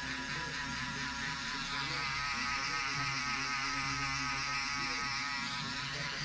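Wahl Travel Shaver, a small electric foil shaver, running with a steady buzz.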